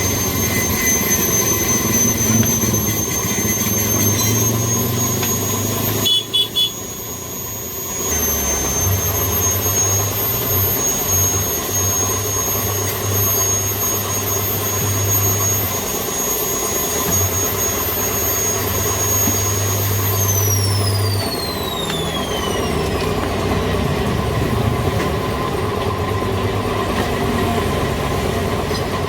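Workshop machinery running with a steady high whine over a low hum that cuts in and out; the whine glides down in pitch about two-thirds of the way through. A short clatter comes about six seconds in.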